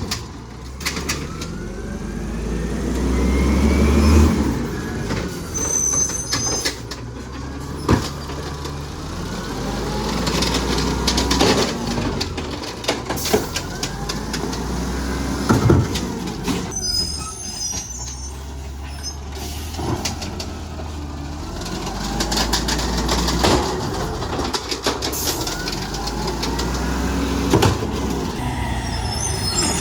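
Garbage truck's diesel engine running and revving up and down, with a rising whine, several sharp clanks and knocks, and short hisses.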